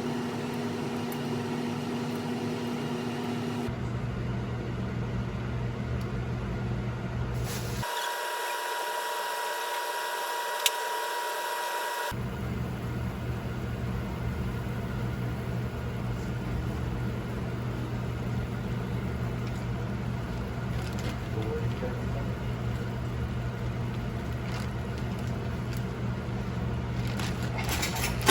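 A steady mechanical hum, like a fan or appliance motor running, whose tone changes abruptly a few times: about 4 s in, about 8 s in, and back about 12 s in.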